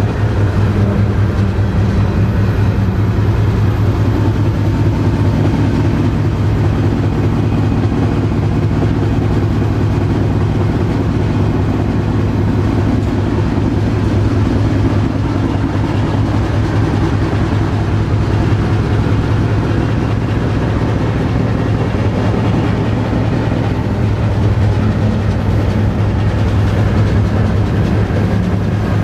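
Freight train rolling along, heard from aboard a rail car: a steady, loud, deep rumble that keeps on without a break.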